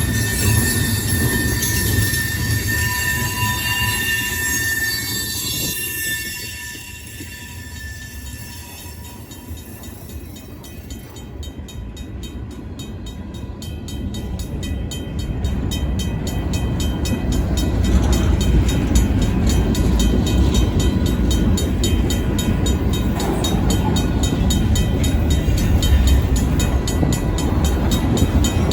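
Union Pacific train moving over the rails: wheels squealing in steady high tones for the first few seconds, then a quieter stretch, then the low rumble of the train builds and stays loud through the second half.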